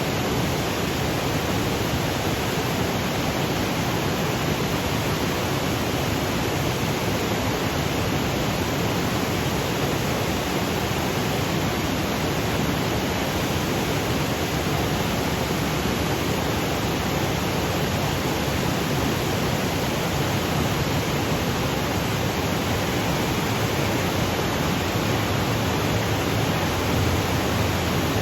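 Waterfall cascading over granite boulders: a steady, even rush of water, with a low part that grows a little stronger near the end.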